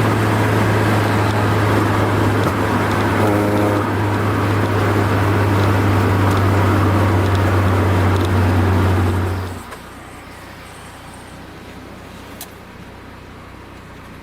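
Honda Accord Maestro with an F22B1 VTEC engine on the move, heard in the cabin: a steady low engine drone under road and wind noise. About ten seconds in it cuts off abruptly, leaving a much quieter cabin with a few small clicks.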